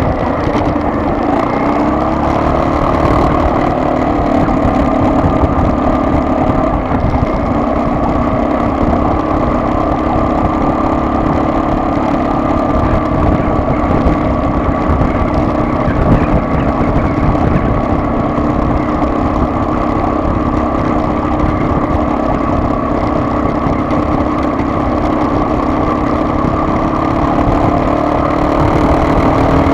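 Car engine running steadily under road rumble, its pitch drifting slowly up and down.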